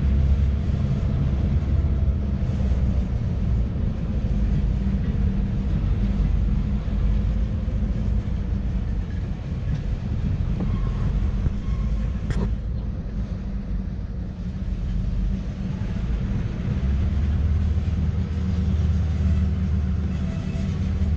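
Freight train's covered hoppers and tank cars rolling past on the rails: a steady low rumble of wheels on track, with a single sharp click about twelve seconds in.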